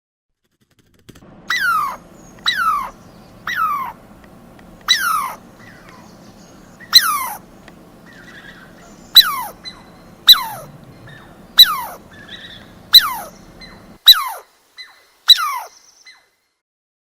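A squirrel giving a series of short, sharp alarm calls, each falling steeply in pitch, about one every one to two seconds.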